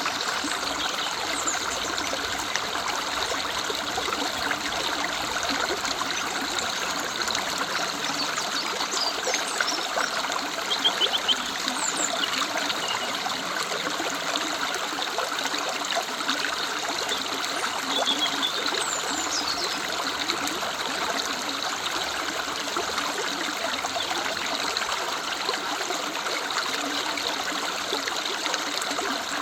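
A river running steadily with a trickling rush. A few short, high bird calls come through now and then.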